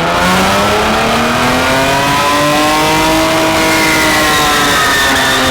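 Car engine held at high revs during a burnout, its pitch climbing slowly and then easing off near the end, over a loud steady hiss of spinning tyres.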